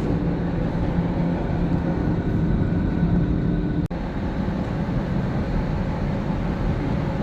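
Interior running noise of a Line 5 Eglinton light-rail train under way between stops: a steady rumble with a low motor hum. The sound cuts out for a split second just under four seconds in.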